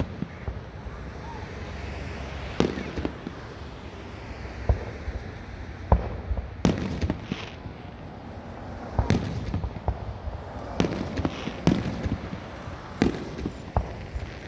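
Fireworks display: about a dozen sharp booms from bursting fireworks at irregular gaps, coming more often in the second half, over a steady low rumble.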